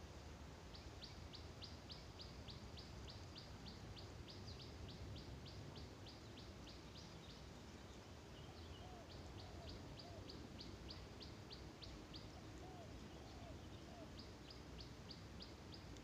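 Faint bird calling: long runs of short, high chip notes at about four a second, in three bouts with brief pauses, and a few fainter low notes in the gaps.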